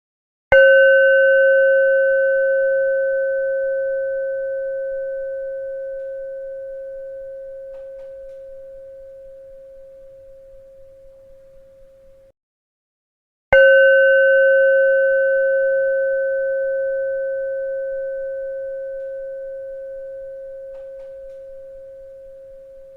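A bell struck twice, about thirteen seconds apart, each time ringing out on a clear steady tone with fainter higher overtones and fading slowly. The first ring cuts off abruptly about a second before the second strike.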